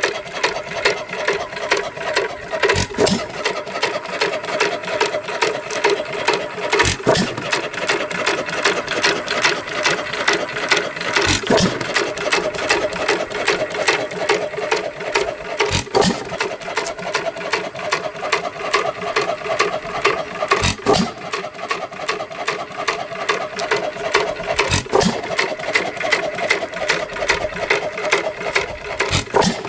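1917 Chapman 2 hp style A hit-and-miss gasoline engine running: a steady rapid clicking clatter from its running gear, broken about every four and a half seconds by a heavier firing stroke as the engine hits, then coasts on its flywheels.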